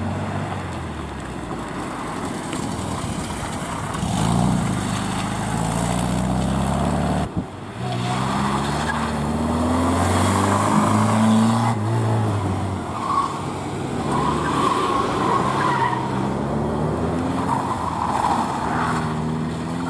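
Classic cars driving a tight course one after another, first an air-cooled Volkswagen Beetle and then a Triumph Spitfire four-cylinder: engines repeatedly revving up and dropping back as they accelerate and brake. Tyres squeal briefly several times in the second half.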